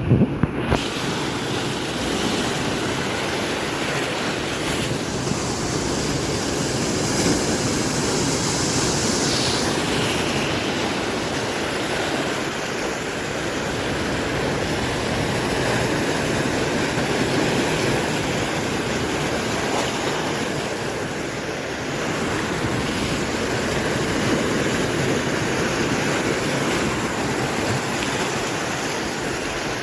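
Large ocean swell waves breaking and washing in as a continuous surf noise, with a louder hissing wash of water about a third of the way through. Wind buffets the microphone.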